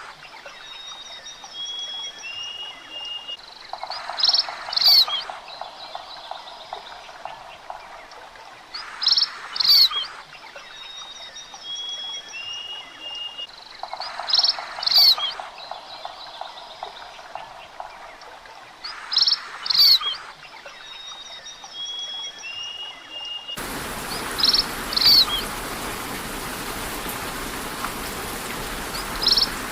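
Forest bird calls: a loud paired call repeats about every five seconds, with short whistled notes and a low rapid trill in between. About 23 seconds in, the steady hiss of falling rain comes in under the calls.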